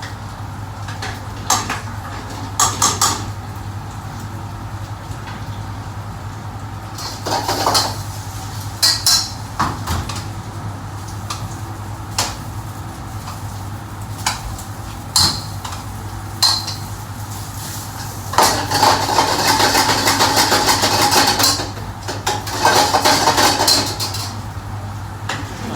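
Kitchen clatter of metal pots, pans and utensils: scattered knocks and clinks, then two longer spells of rattling and scraping about three-quarters of the way through, over a steady low hum.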